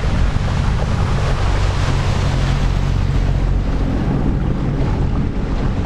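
Jet ski running steadily underway, its engine a low steady drone under a loud rush of wind on the microphone and water spray.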